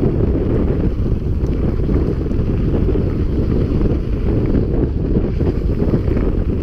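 Loud, steady wind rumble on the camera's microphone from a mountain bike ridden at speed.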